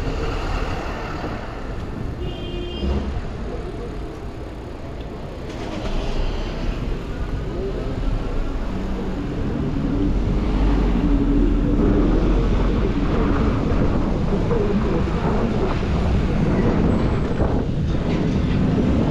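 Downtown street traffic heard from a moving bicycle: a steady low rumble of passing vehicles that grows louder about halfway through, with a brief high-pitched ring a couple of seconds in.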